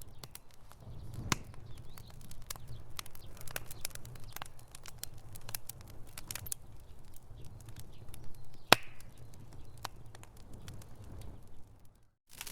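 Wood fire in a fireplace crackling, with irregular sharp pops over a low rumble; one loud pop about nine seconds in. The sound cuts out briefly just before the end.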